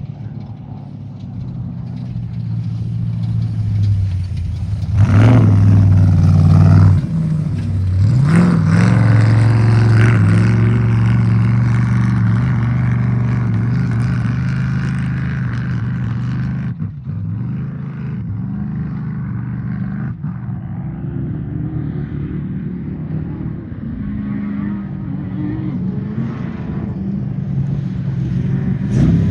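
Off-road race vehicle engine revving hard under throttle as it goes by, with sharp surges about five and eight seconds in, then fading, while another engine builds toward the end.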